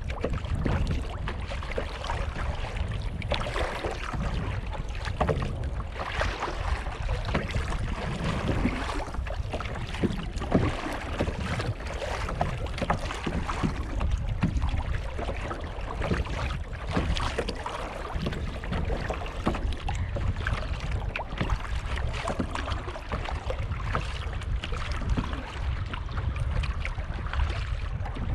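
Kayak paddling: paddle blades splashing and water sloshing against the hull in short irregular strokes, over a steady low rumble of wind buffeting the microphone.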